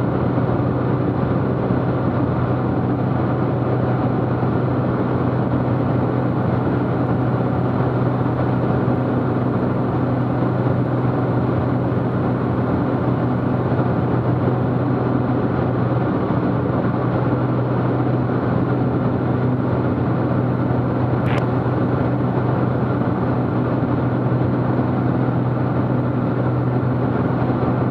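Steady drone inside the cabin of a Cessna T210 in flight: its turbocharged six-cylinder engine and propeller running at constant power, with a low hum. One faint click about three-quarters of the way through.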